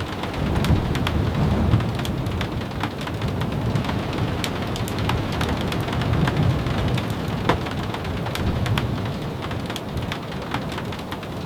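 Steady rain, with scattered sharp ticks of drops striking close by and a low rumble that swells and fades twice.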